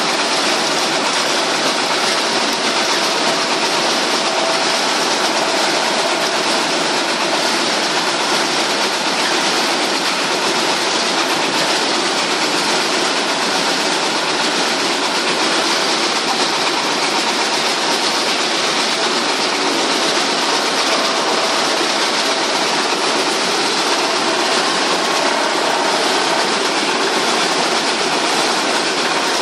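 Wood chipper running, a loud, steady mechanical din without a break.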